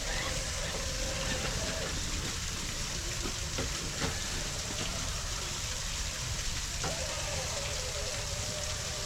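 High-pitched whine of a 1/10-scale RC rock crawler's electric motor as it crawls over rock. It runs for about the first two seconds, stops, and starts again about seven seconds in, over a steady outdoor hiss and a few faint clicks.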